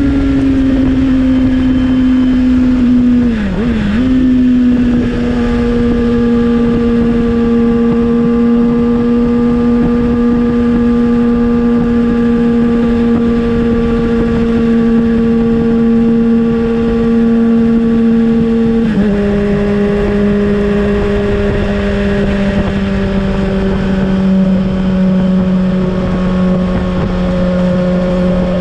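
Kawasaki ZX-6R inline-four through an M4 slip-on exhaust, running at a steady cruising pitch under wind rush. The pitch dips briefly about three and a half seconds in, then about nineteen seconds in drops suddenly to a lower steady pitch.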